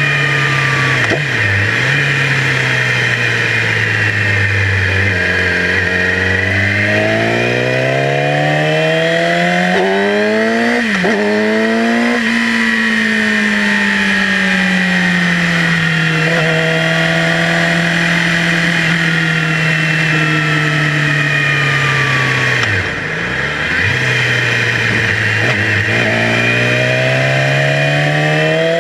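Yamaha YZF-R6's 600 cc inline-four engine under way. The revs climb and ease off, with a few sharp dips and jumps in pitch at gear changes and a long, slowly falling stretch in the middle.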